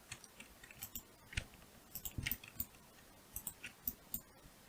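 Faint computer mouse clicks and keyboard key presses, coming as scattered taps in small clusters.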